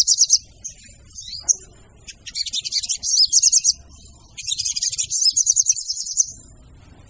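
Call of a female sogon bird, used as a lure: bursts of rapid, high-pitched chattering trills. One burst ends just after the start, two more come about two and four and a half seconds in, and a couple of short chirps fall between them.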